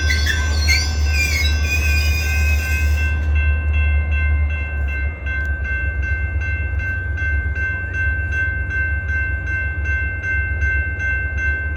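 Diesel-hauled freight train moving slowly, with a steady low engine rumble and a steady high whine. Wheels squeal in curving tones for the first few seconds, then click at an even pace of about two a second over the rail joints.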